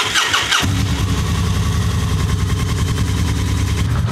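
1998 Kawasaki VN1500 Nomad's V-twin engine cranked by the electric starter, catching about half a second in, then idling steadily on choke. This is its first start on newly fitted spark plug wires.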